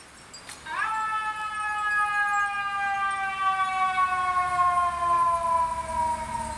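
A siren: a long wailing tone that comes in sharply about a second in, then holds and slowly slides down in pitch.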